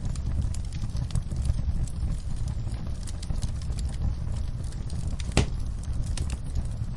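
Wood fire crackling: a steady low rumble of burning with scattered small pops, and one sharp, louder pop about five seconds in.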